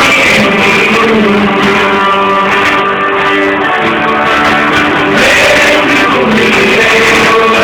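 Guitar-led worship band music playing loudly, an instrumental passage with held chords.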